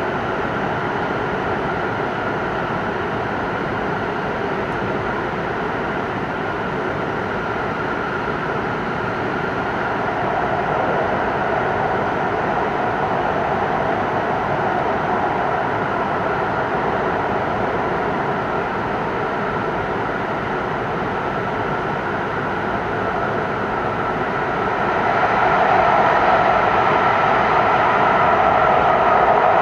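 Hokkaido Shinkansen train's running noise heard from inside the passenger cabin in the Seikan Tunnel: a steady rushing roar of wheels, rails and air in the tunnel. It swells slightly about ten seconds in and grows louder and brighter about twenty-five seconds in.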